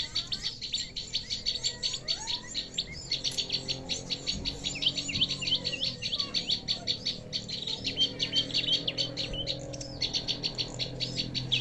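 Prenjak (prinia) birds calling: a fast, continuous chatter of short, high chirps and trills, many notes a second.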